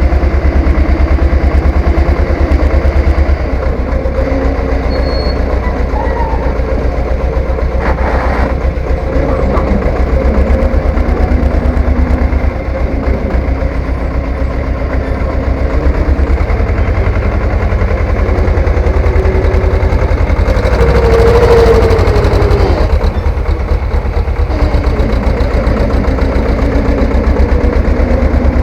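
Three-wheeled farm tractor's engine running steadily with a rapid, even chugging. It gets louder and rougher for a second or two about three quarters of the way through.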